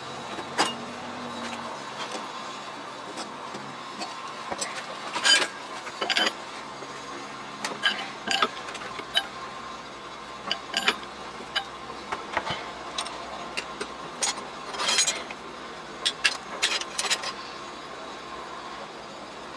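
Metal lathe running steadily with a faint constant whine, while irregular sharp clicks and clinks of metal come every second or so.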